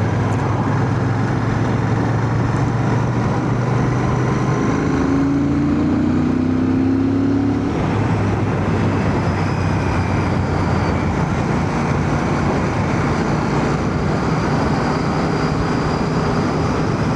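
Royal Enfield Shotgun 650's 648 cc parallel-twin engine running at a steady cruise, mixed with wind and road noise, as heard from a microphone inside a full-face helmet. A higher engine note rises slightly for a few seconds in the middle.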